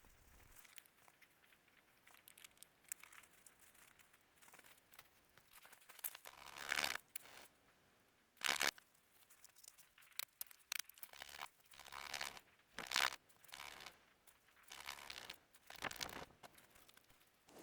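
Irregular rustling and crunching noises, scattered short bursts with quiet gaps between, the loudest about seven and eight and a half seconds in.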